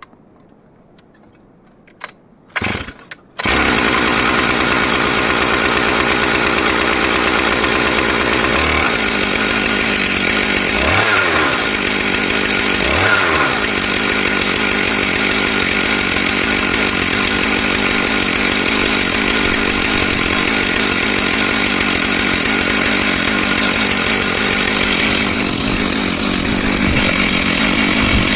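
Stihl MS661 two-stroke chainsaw: a few short sputters, then it starts and runs loud and steady at high revs. Its pitch shifts around a third of the way in and dips and recovers twice shortly after.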